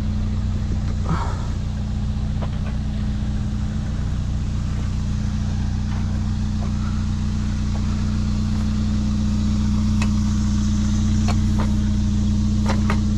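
Vehicle engine idling steadily with a low, even hum, and a few sharp clicks and knocks scattered over it.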